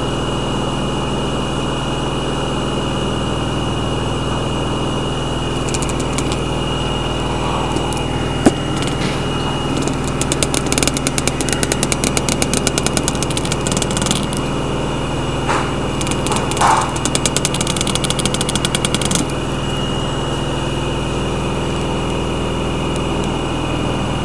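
LG washing machine running its final spin, a steady hum with a thin high whine. From about six seconds in to near the end, a fast rattling ticking joins it, with one sharp knock early in that stretch.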